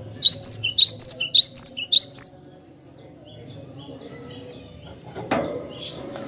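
Cinereous tit (glatik batu) singing a loud, rapid series of sharp high two-note phrases for about two seconds, then softer repeated chirps. A brief knock comes about five seconds in.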